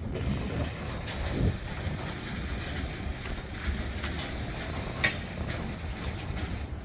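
Boxcars of a freight train rolling past: a steady rumble of steel wheels on the rails with scattered knocks, and one sharp metallic clank about five seconds in.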